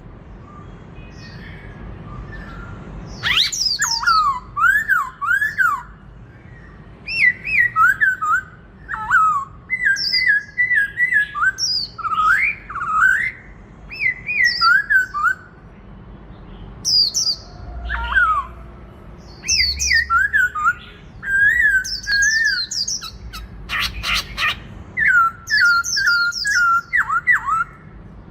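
Black-throated laughingthrush singing a loud competitive song, starting a few seconds in. Its phrases of rich whistled notes slide up and down and come in bursts of a second or two, separated by short pauses. A brief clatter sounds about three-quarters of the way through.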